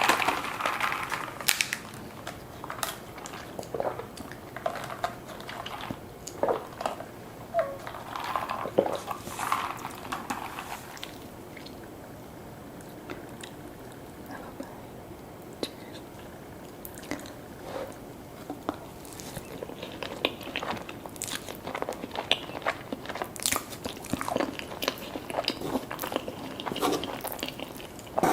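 Close-miked eating: a person taking crunchy bites and chewing, with irregular crisp crackles and a quieter spell of chewing about midway.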